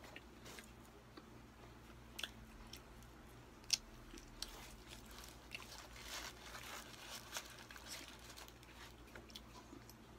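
Close-up eating of a McDonald's burger: bites and chewing heard as scattered soft crackles and clicks, the sharpest about four seconds in and a busier run of them a couple of seconds later.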